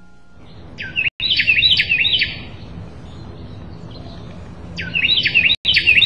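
A songbird singing two phrases of quick, repeated chirping notes, the second about four seconds after the first.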